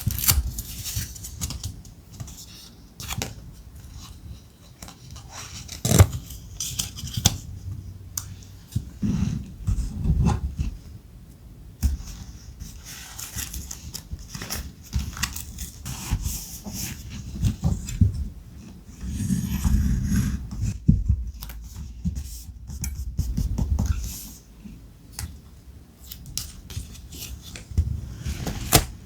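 Close-miked paper crafting: thick paper being handled, rustled and scraped, with scissor snips and sharp clicks scattered throughout.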